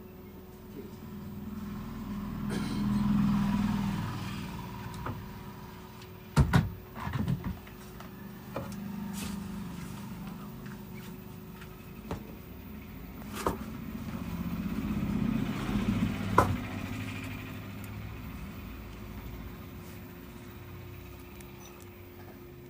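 Road vehicles passing by, the sound swelling and fading twice, with a few sharp clicks and knocks, the loudest about six and a half seconds in, over a faint steady hum.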